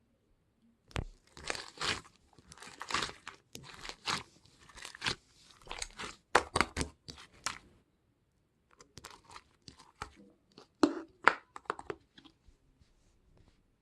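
Close handling noises: a run of rustling, tearing and crinkling sounds in quick bursts, a short pause about eight seconds in, then a few sharper clicks and rustles.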